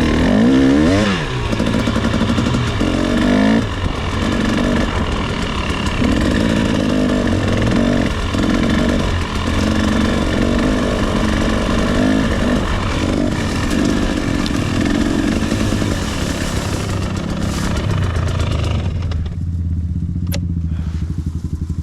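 Dirt bike engine revving up and down as the throttle is worked, with repeated rises and falls in pitch, then settling to a lower, steady idle about nineteen seconds in.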